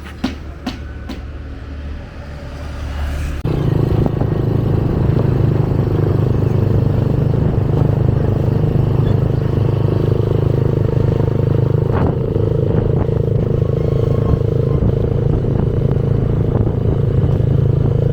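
Motorbike engine running steadily on the road with a rush of air noise, coming in suddenly about three and a half seconds in. Before it come a few scattered clicks and knocks.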